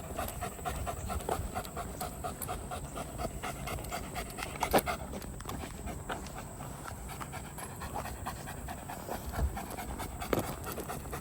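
Large dog panting fast and steadily, with a single sharp click about five seconds in.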